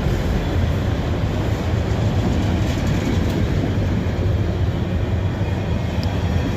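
Freight train of autorack cars rolling steadily past at close range: continuous wheel-on-rail noise, heaviest in the low end.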